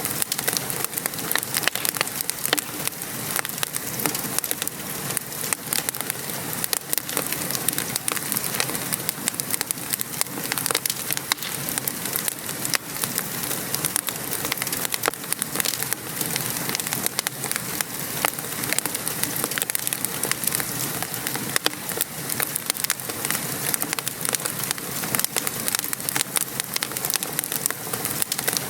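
Steady patter of gentle rain mixed with a crackling wood fire, with frequent small pops and clicks.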